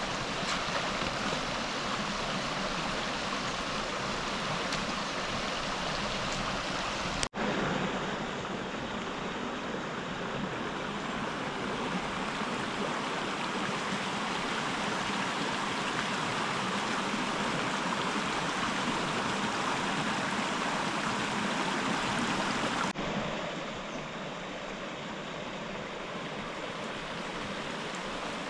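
Steady rush of flowing river water, with abrupt shifts in the sound about a quarter of the way in and again near the end.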